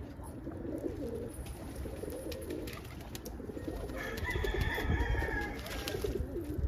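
Domestic pigeons cooing repeatedly in moderate rain, with scattered ticks of drips. About four seconds in, a higher, drawn-out bird call joins for about two seconds.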